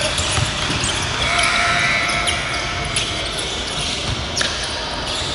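Basketball being dribbled on a hardwood gym floor during a game, a series of irregular bounces over steady gym noise with brief sneaker squeaks and background voices.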